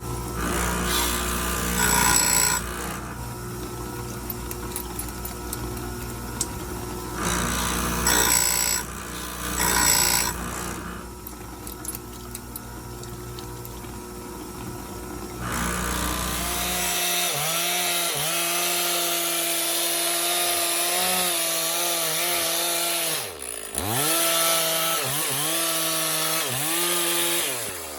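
Stihl MS 460 two-stroke chainsaw cutting wood: during the last ten seconds its engine note dips under load and revs back up again and again. Before that, a steady low engine drone with three short loud bursts.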